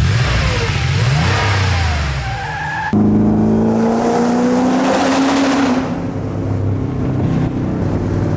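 Performance car engines revving. First comes a rev that rises and falls, then an abrupt cut about three seconds in to a louder engine pulling hard, its pitch climbing slowly and then holding.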